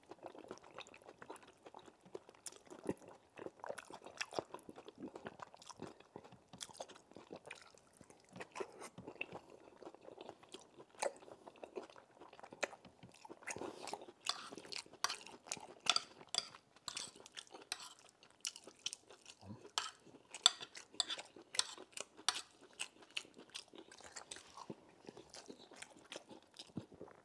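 Close-miked chewing of a mouthful of rice, beans and palm-nut stew: wet smacking with many sharp clicks, coming thicker and crisper in the second half.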